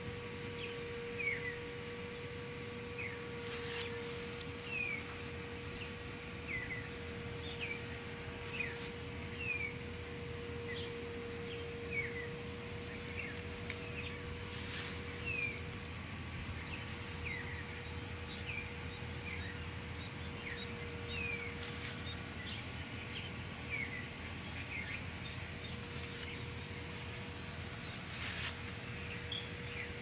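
Small birds chirping over and over, each call a short downward-slurred chirp, about one a second. A steady low hum runs underneath, with a few brief rustles.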